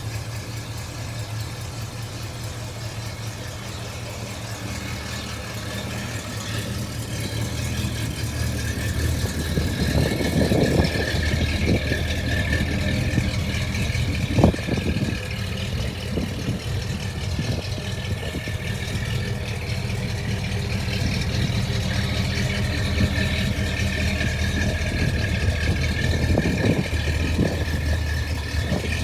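1981 Camaro Z28's V8 running at idle through its exhaust with a steady low rumble, getting louder for stretches near the middle and again near the end. A single sharp click sounds about halfway through.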